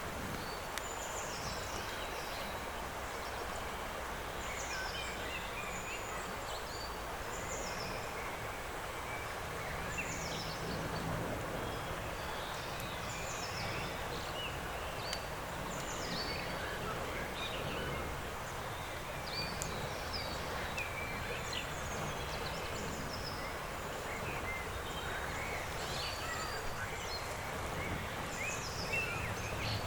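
Many small birds chirping and singing in short, scattered calls over a steady outdoor hiss.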